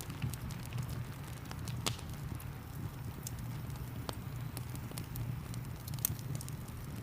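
Wood fire crackling, with irregular sharp pops (the loudest about 6 seconds in), over a steady rain and low rushing background.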